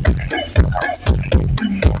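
Loud electronic dance music played through a Blizzard Audio carnival sound system with 25-inch subwoofers: deep bass kicks that drop in pitch, several each second.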